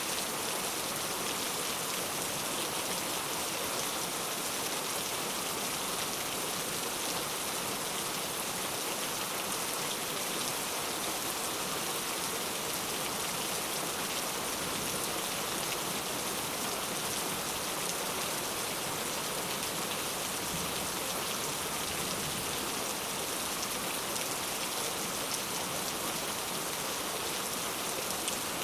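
Heavy rain falling steadily, a dense, even hiss of countless drops with no letup.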